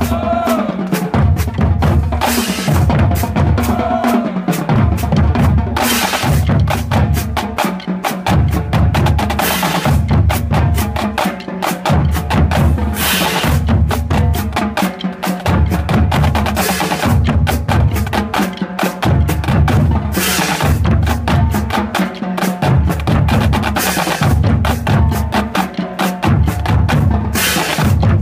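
A drumline playing a fast percussion piece: snare drums rolling and rattling over deep bass drum hits, with cymbal crashes every few seconds.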